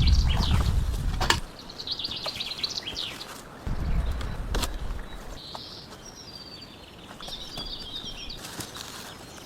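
Small birds chirping and twittering in a forest. A low rumble sounds at the start and again about four seconds in, with a few sharp clicks.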